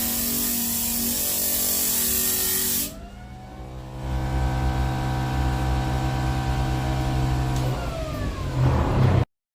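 Power tool working wood, a loud rasping hiss of abrasion, stops sharply about three seconds in. The tool's electric motor then speeds up with a rising whine, runs steadily, and winds down with a falling pitch near the end.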